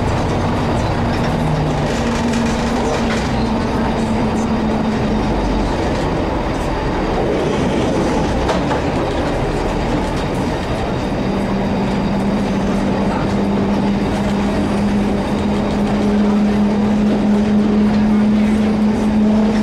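Narrow-gauge diesel multiple unit running along the track, heard from the driver's cab: engine and running gear noise with wheels on the rails. A steady hum comes in about halfway through and holds to the end.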